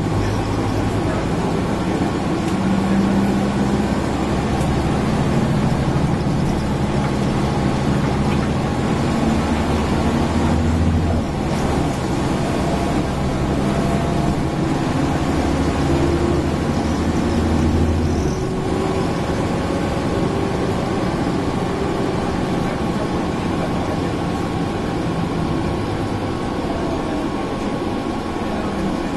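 Mercedes-Benz O405N city bus heard from inside, its engine running as the bus drives along, mixed with the steady hum of the air conditioning. The engine note shifts in pitch a couple of times, about 11 and 18 seconds in, as the bus changes speed.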